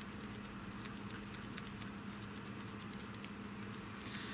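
Model paint being stirred in a small plastic mixing cup: faint, irregular light ticks of the stirrer against the cup.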